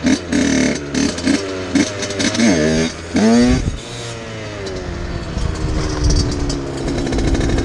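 Two-stroke dirt bike engine: a run of quick throttle blips, then about two seconds in it revs up and back down twice, after which it runs on at a steadier, slowly falling pitch.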